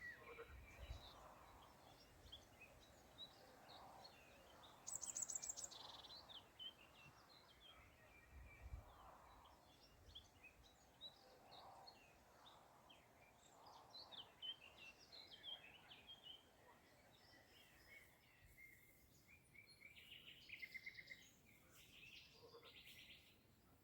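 Faint mixed birdsong: several birds chirping and whistling short high phrases, with a fast high-pitched trill about five seconds in and more trills near the end.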